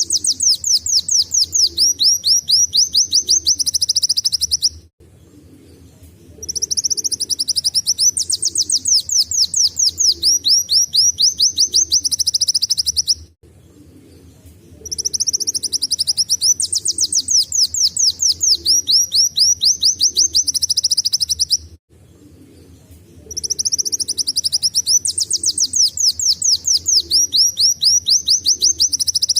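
Kolibri wulung sunbird singing canary-style song. It gives long phrases of fast, high, sweeping notes run together into trills, four phrases of several seconds each with short pauses between.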